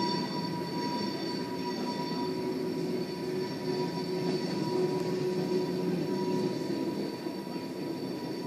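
Tank cars of an oil train rolling past: a steady rumble of wheels on rail, with several thin, steady high-pitched wheel squeals over it. Heard through window glass.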